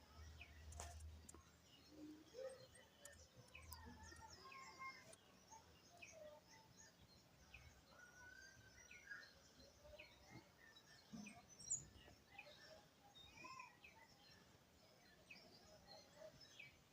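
Faint chorus of wild birds: many short chirps and quick downward-sweeping call notes overlapping throughout.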